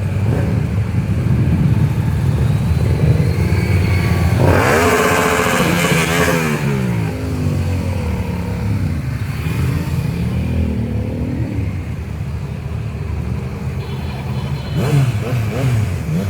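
Motorcycle engines running with a steady low rumble. About four seconds in, one motorcycle revs hard and its pitch climbs, then falls away over the next couple of seconds. Another rev comes near the end.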